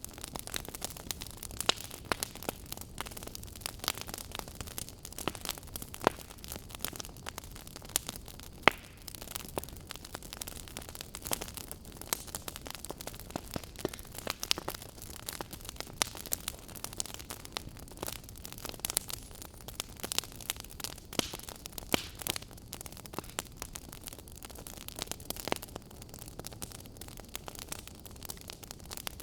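Fire crackling: a dense, irregular stream of sharp pops and snaps over a low steady rumble, with a few louder snaps standing out.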